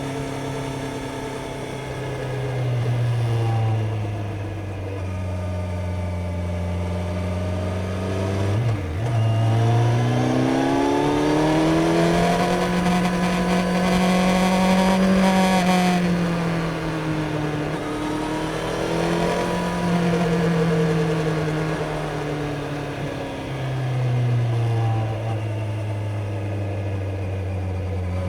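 Kawasaki Z900's inline-four engine running under way, the revs climbing and easing off: a long rise in pitch about a third of the way in, a fall a little past halfway, a shorter rise after that, and a drop back to a low steady note near the end.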